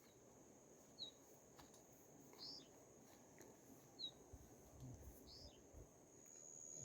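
Faint, sparse bird chirps: four short calls, each dropping in pitch, about a second and a half apart, over a steady thin high-pitched whine.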